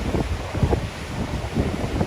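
Strong wind buffeting the microphone in uneven gusts, a rumbling low-pitched roar.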